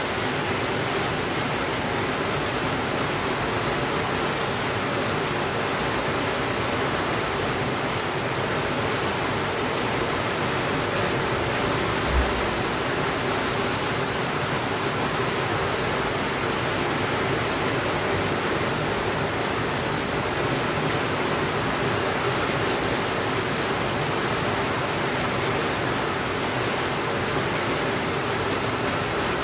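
Steady rainfall, an even unbroken hiss. About twelve seconds in there is a single short, low thump.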